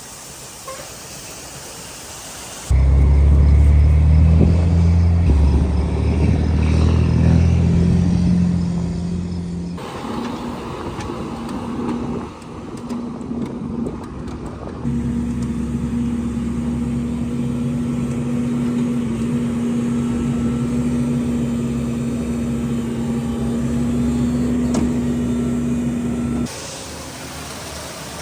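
Farm machinery engines running steadily in several clips that cut in and out abruptly, with a low, even engine hum.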